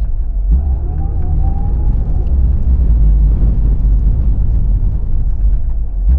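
Car driving, heard as a loud, steady low rumble of road and wind noise, with a faint whine rising slightly in pitch from about half a second in.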